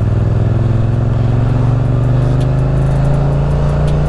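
Motorcycle engine pulling under steady acceleration, its pitch rising slowly, with wind noise on the microphone.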